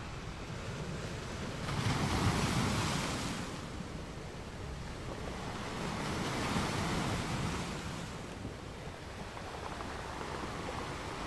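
Washi tape being peeled off its roll and handled: two soft swells of rasping noise, each about two seconds long, over a steady hiss.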